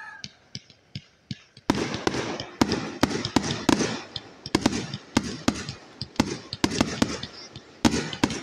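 Aerial fireworks bursting overhead: a few separate sharp cracks at first, then from about two seconds in a dense run of bangs and crackling pops.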